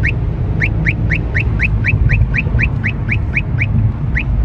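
Steady low road and engine rumble of a moving car, heard from inside, with a rapid run of short rising chirps, about four a second, that breaks off briefly near the end.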